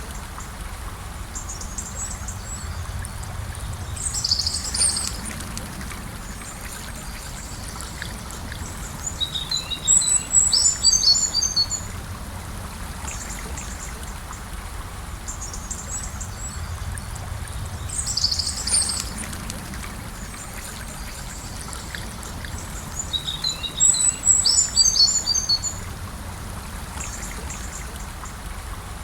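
Gentle river flowing steadily, with birds singing over it in short bursts of rapid chirps, the loudest phrases about ten seconds in and again near the end.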